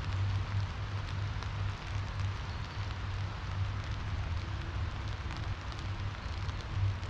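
Steady rain falling, with scattered ticks of individual drops over an even hiss and a constant low rumble underneath.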